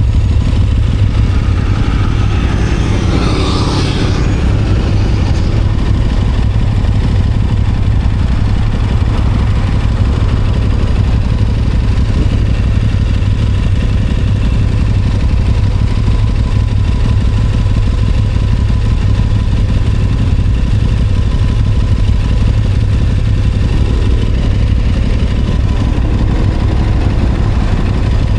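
Aprilia Tuono 660 parallel-twin motorcycle being ridden, engine running under a heavy steady low rumble. The engine note rises briefly about three seconds in and climbs again near the end.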